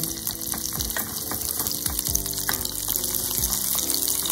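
Sliced onions sizzling in hot olive oil in a small iron pot, stirred now and then with a wooden spatula, with background music.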